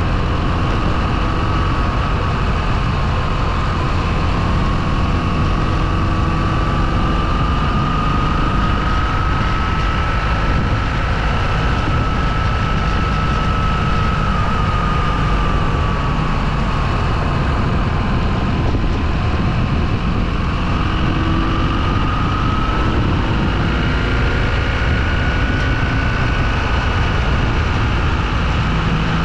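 Motorcycle engine running steadily while riding, with a whine that slowly rises and falls in pitch as the engine speed changes.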